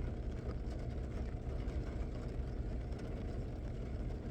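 Steady low drone of a vehicle's engine heard from inside the truck cab.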